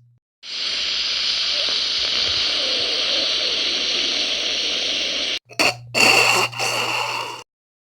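Steady rushing noise that runs for about five seconds and cuts off abruptly. It is followed by a shorter stretch of noise with a low hum and faint high tones, which stops suddenly.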